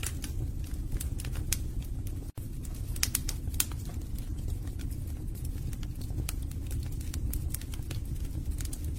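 Wood fire burning in a fireplace: irregular sharp crackles and pops of the burning logs over a steady low rumble of the flames. The sound cuts out for a split second a little over two seconds in.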